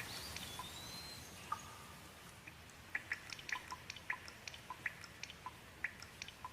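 Rain falling with a soft steady hiss and irregular drips plinking, the drops coming thicker from about three seconds in. A brief high whistle sounds near the start.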